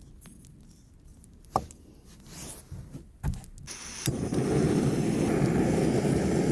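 Jetboil camp stove being lit: a few scattered clicks and knocks, then a sharp click about four seconds in as the gas burner lights and runs with a steady rushing sound.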